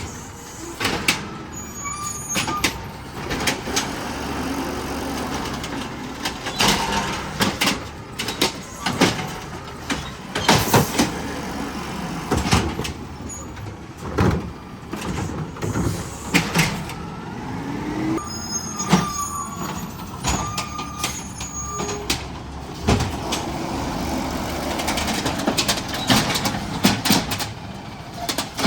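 Garbage truck at work: engine running steadily, with many sharp clanks and bangs and a few short high squeals, and a brief rising whine about two-thirds of the way through.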